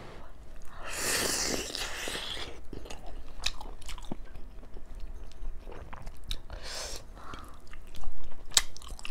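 Close-miked chewing of hot steamed chicken momo: wet smacking and clicking mouth sounds, with breathy puffs blown out over the hot food, a long one about a second in.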